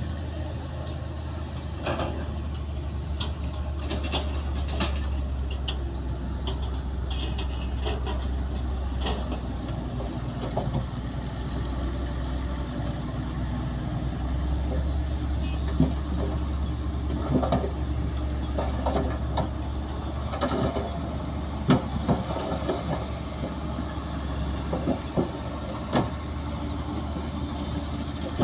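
Komatsu D60P crawler bulldozer running steadily, its engine a low drone, with irregular clanks and knocks from the working machine, more frequent in the second half.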